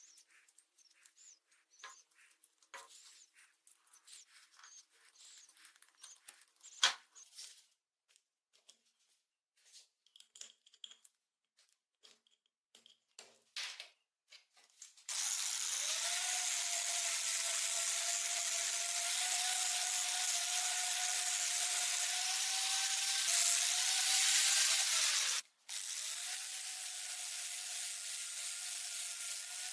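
Scattered light clicks and taps, then a power tool starts about halfway through and runs steadily with a whine over a hiss. It cuts out for a moment near the end and starts again.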